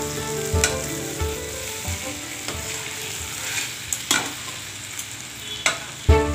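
Onion and tomato masala sizzling in a metal kadhai while a metal spatula stirs it, with several sharp scrapes and knocks of the spatula against the pan.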